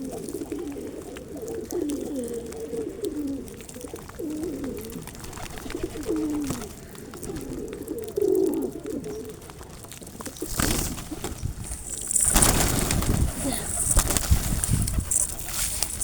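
Pigeons cooing, a string of low wavering coos through the first nine seconds or so. From about ten seconds in, a louder rustling noise takes over.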